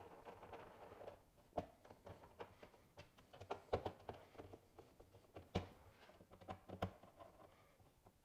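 Faint, irregular clicks and metallic taps from a hand tool tightening the bolts of a tailgate pass-through plate, with a few sharper knocks along the way.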